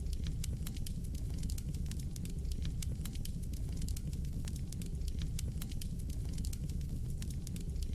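Fire crackling in a fireplace: frequent, irregular sharp snaps and pops over a steady low rumble.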